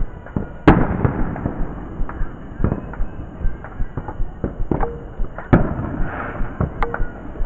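Fireworks and firecrackers going off all around: a rapid, irregular scatter of sharp pops and bangs, with the loudest bang under a second in and another big one about five and a half seconds in, each trailing off in an echo.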